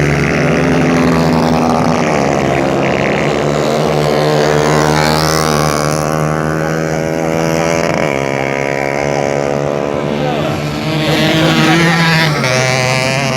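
Several 150 cc racing motorcycles running at high revs, their engines overlapping with pitch changes as they pass, one surging up about three quarters of the way through.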